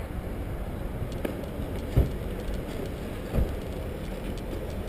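Steady low rumble of a moving bicycle, wind on the microphone and tyres on the trail, with two short thumps about a second and a half apart.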